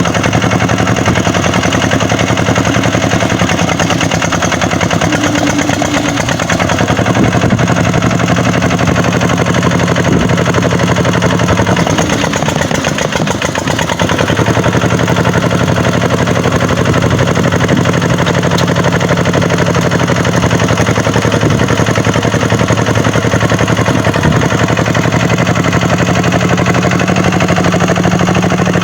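Kubota tractor's diesel engine running hard with a fast clatter; its note sags and wavers about twelve seconds in, then steadies again.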